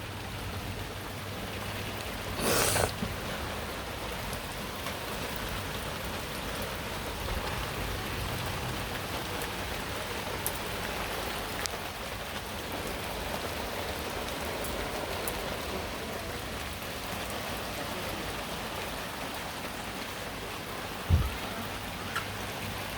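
Steady rain falling during a thunderstorm, an even hiss of drops. About two and a half seconds in there is a brief louder rush, and near the end a single low thump.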